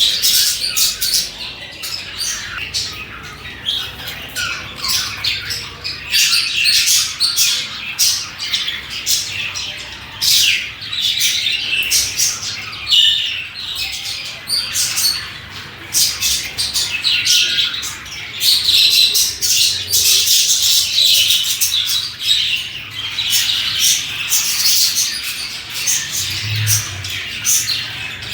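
Several budgerigars (pet parakeets) chirping and chattering together, a busy, unbroken run of quick high chirps overlapping one another.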